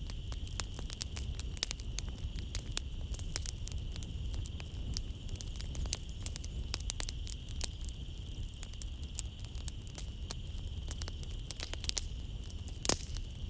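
Wood fire crackling in a fireplace: dense irregular snaps and pops over a low steady rumble of the flames, with one louder pop near the end. A steady high-pitched insect drone runs underneath.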